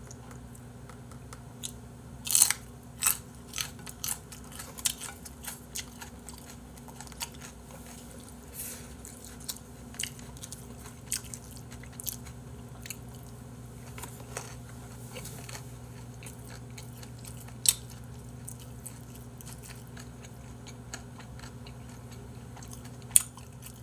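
Close-miked mouth sounds of someone eating: crisp crunches as a raw green chili pepper is bitten, loudest about two seconds in, then chewing of it and of boiled pork (bossam), with wet mouth clicks that thin out over time. A steady low hum lies underneath.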